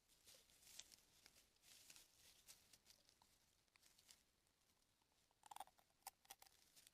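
Near silence with faint scattered clicks and rustles, a quick cluster of them about five and a half seconds in.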